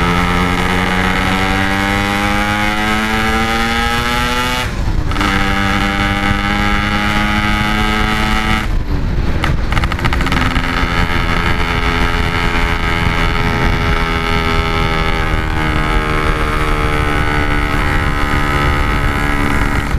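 Yamaha RX-King 135 cc single-cylinder two-stroke motorcycle engine running under way. Its note climbs slowly and is cut briefly by gear changes about five and nine seconds in, then holds a steady pitch.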